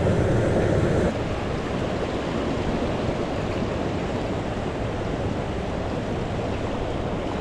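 Mountain stream rushing steadily over rocks, a little louder for the first second.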